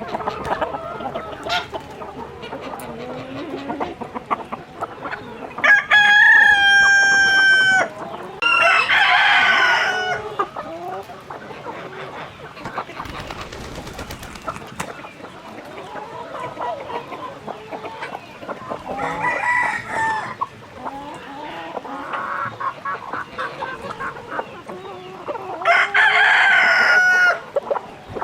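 A flock of chickens clucking throughout, with roosters crowing: two loud crows back to back about six seconds in, a fainter crow near the twenty-second mark and another loud one near the end.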